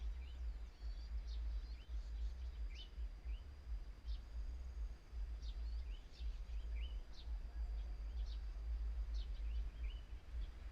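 Scattered short chirps and quick falling notes of small birds over a steady high thin whine, with a constant low rumble of wind buffeting the microphone.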